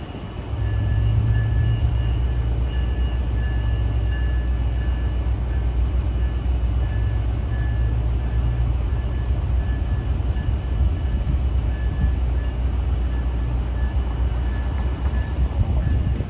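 Diesel-hauled passenger train at the station, a heavy steady low rumble that swells about half a second in and holds, with a faint high tone coming and going above it.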